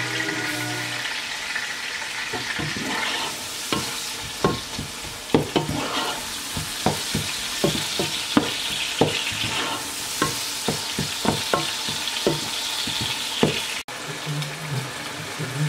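Food sizzling in a pot on the stove while a wooden spoon stirs it, the spoon knocking against the pot about twice a second. The sizzling carries on after the stirring stops, near the end.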